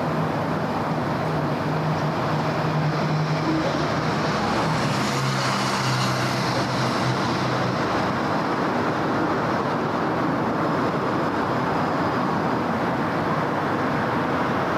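Steady city road traffic, vehicles driving past with continuous tyre and engine noise. A low engine drone runs through the first half, shifting in pitch, and a passing vehicle swells louder near the middle.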